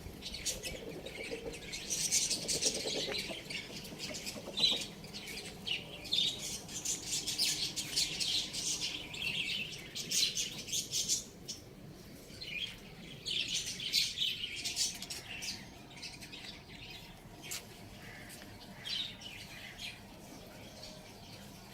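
Many small birds chirping and twittering together in a dense, high chatter that thins out in the last few seconds.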